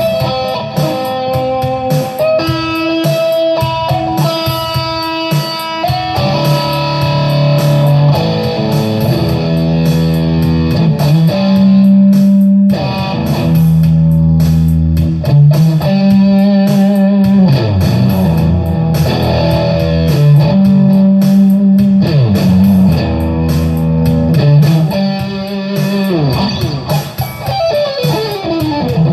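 Electric guitar playing improvised lead lines: held notes and pitch slides, with a quick falling run of notes near the end.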